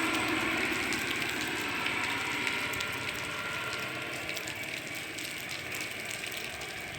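Police helicopter flying off, its rotor and engine noise steadily fading, with a fast clicking chop.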